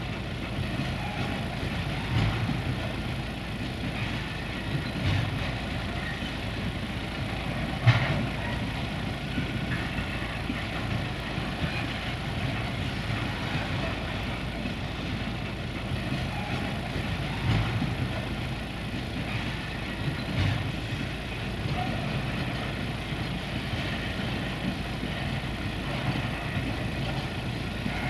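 Empty flat wagons of a freight train rolling past, a steady rumble of steel wheels on the rails with occasional knocks, the loudest about eight seconds in.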